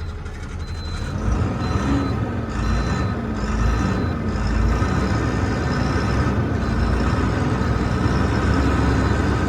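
Truck engine pulling up as the truck creeps a short way, with an electronic warning beeper sounding steadily, a short high beep a little more than once a second.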